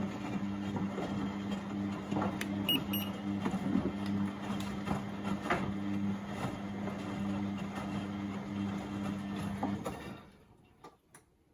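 Beko WMB71642W washing machine tumbling its drum during the 30° wash: a steady motor hum with water and laundry swishing and light clicks. The drum stops turning about ten seconds in, a pause in the wash action.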